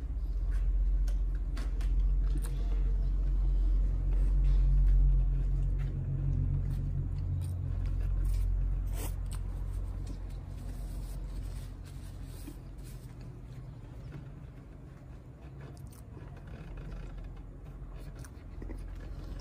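A person chewing a mouthful of food close to the microphone, with scattered soft mouth clicks. Under it is a low rumble that swells over the first few seconds and fades away by about ten seconds in.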